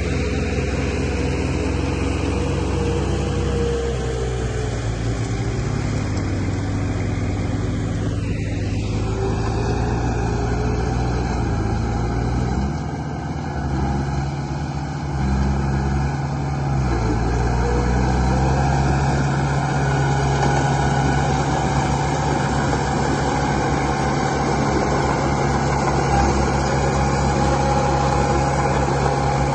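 Model construction machinery running: a steady, engine-like low drone whose pitch shifts up and down several times, dipping briefly in loudness about halfway through.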